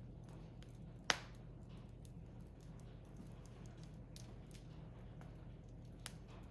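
Firewood burning in an open fire pit, crackling faintly, with one sharp, loud pop about a second in and a smaller pop near the end, over a steady low hum.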